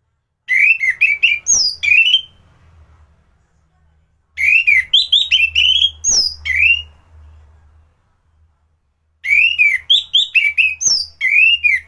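Orange-headed thrush (anis merah) singing loudly, three phrases of rapid, varied whistled notes about two seconds each with short pauses between.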